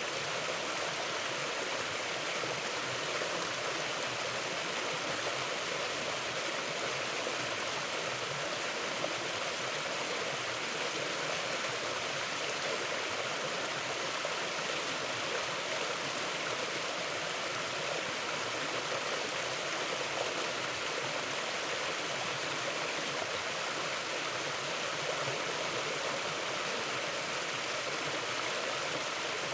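A mountain river flowing: a steady, even rush of water over rocks.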